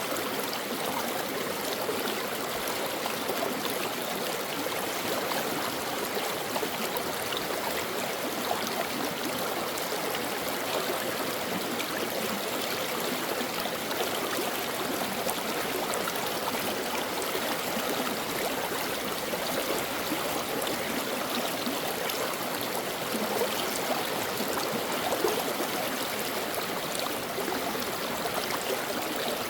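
Stream water flowing and babbling over rocks, a steady, even rush with fine gurgling, unbroken throughout.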